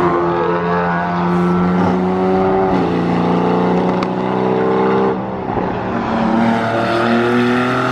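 Car engine running under load, its pitch holding fairly level, shifting about three seconds and again about five seconds in, then slowly rising.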